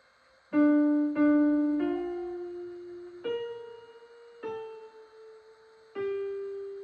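Piano playing a slow, simple melody one note at a time: six notes, each struck and left to ring and fade before the next.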